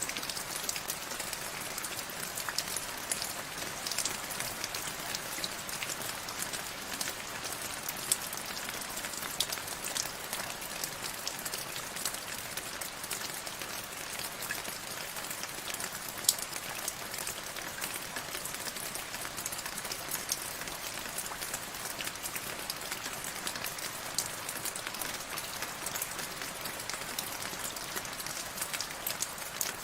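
Steady rain falling, a continuous hiss with many individual drops pattering and ticking close by.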